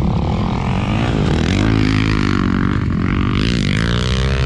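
ATV engine running, its pitch climbing over the last second or so as it revs up.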